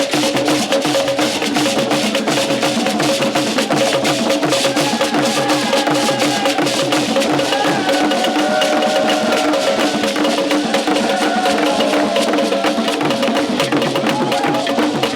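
Drum and percussion ensemble playing fast, dense strokes with a woodblock-like click, over two steady held tones; a wavering higher melody line comes in about a third of the way through and fades near the end.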